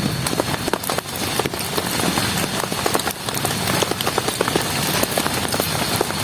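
Heavy rain falling steadily, with many separate drops tapping sharply close by on a surface.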